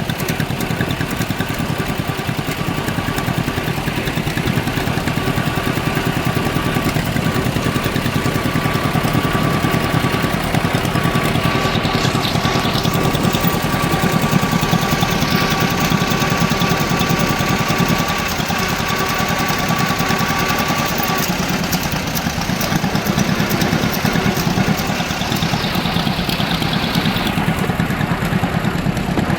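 Tractor engine running steadily under way, with a faint steady whine that stops about two-thirds of the way through.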